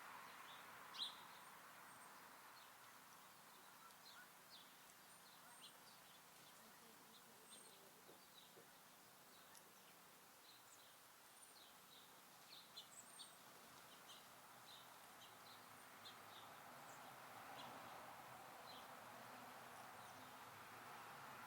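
Small songbirds at a backyard feeder giving many short, high chirps, scattered throughout with a louder chirp about a second in and a quick cluster a little past halfway, over a faint steady background hiss.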